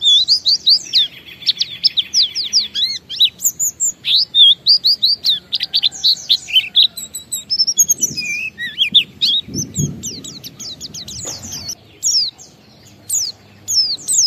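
White-eye (pleci) singing a long, rapid, nearly unbroken run of high chirping notes and short trills, the continuous 'ngalas' song. A brief low rumble sits under it about eight to ten seconds in.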